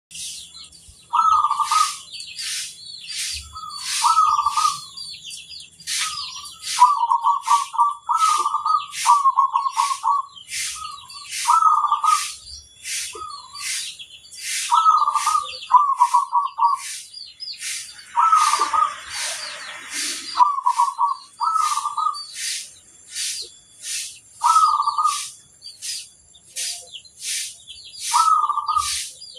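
Zebra dove (perkutut) cooing: short rolling, trilled phrases repeated every second or two, over a steady run of high, quick chirps about twice a second.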